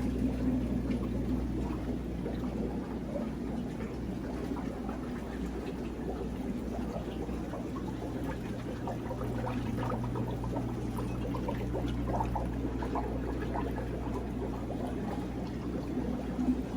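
Water trickling and splashing in aquarium tanks over a steady low hum of pumps and filters.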